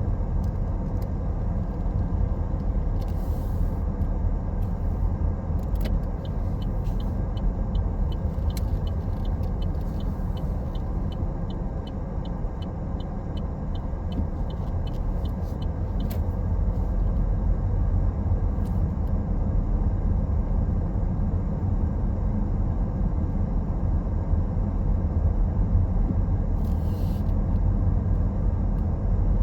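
Steady low road and engine rumble heard inside a moving car. For about ten seconds partway through, a turn-signal indicator ticks evenly, about three ticks a second.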